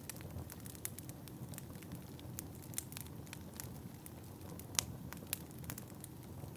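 Wood fire crackling, with irregular sharp pops scattered throughout, the loudest one about three-quarters of the way through, over a steady low rumble.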